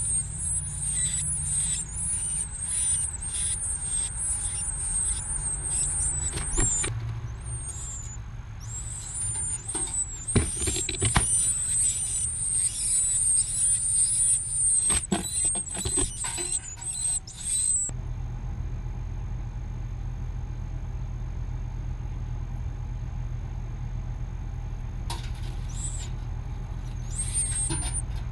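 Nestling birds begging, a dense, high-pitched wavering twitter as the parent feeds them, with a few sharp clicks among the calls. The begging stops about two-thirds of the way through, leaving a steady low rumble, and starts again near the end.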